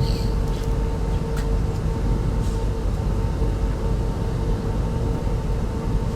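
Steady running noise inside a 25T-type passenger coach of a moving train: a low rumble with a constant hum, and a few faint brief high squeaks or ticks.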